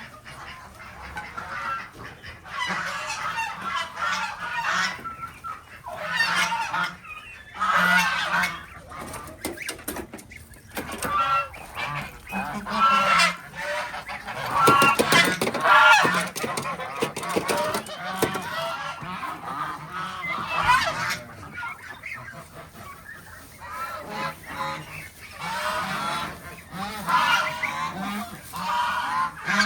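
A flock of farm fowl calling loudly in repeated, overlapping bursts, cluster after cluster with short lulls between.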